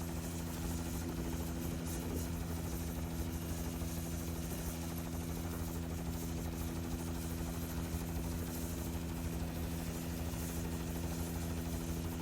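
Helicopter's motor and rotor running with a steady hum over a low drone.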